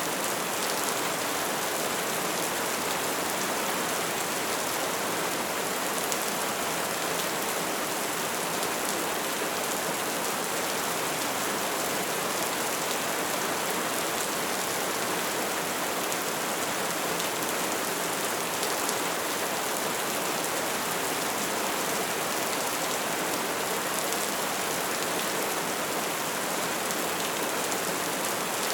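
Bonfire burning with a steady, dense crackle and hiss.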